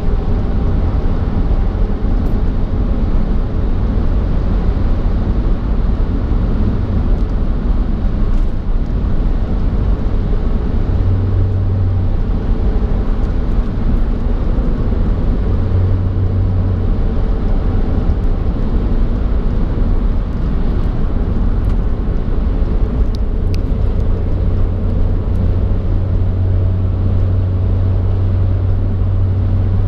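A car driving along the road: a steady low rumble of engine and tyre noise with no change in speed.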